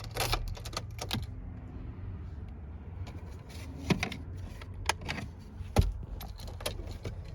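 Keys jangling with a string of sharp clicks, a quick cluster in the first second and then single clicks every second or so, over a steady low hum.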